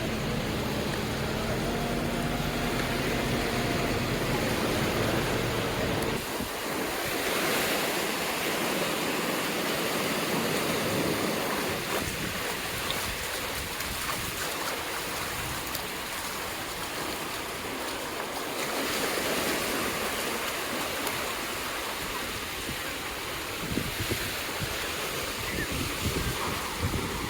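Ocean surf breaking and washing up a beach, a steady rush that swells twice. For the first several seconds a steady hum with a couple of held tones runs under it, then stops.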